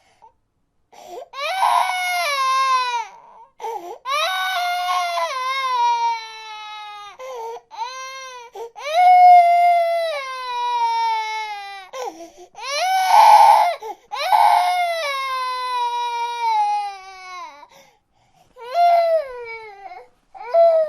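An infant crying in a string of long, high cries, about eight of them, most sliding down in pitch at the end, with short pauses between.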